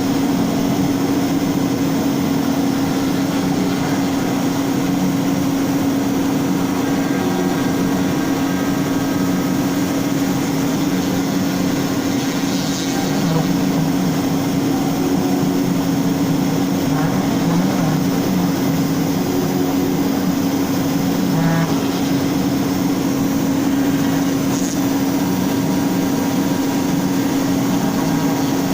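CNC router spindle running at a steady high speed, cutting wood, with a constant hum.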